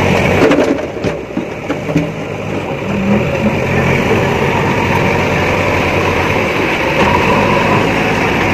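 Diesel engine of a backhoe loader running steadily, with a few short knocks and a brief drop in level in the first two seconds.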